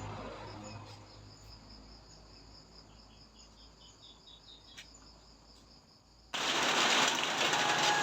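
Faint insects chirping in steady high pulses. About six seconds in, a loud, even rushing noise starts suddenly.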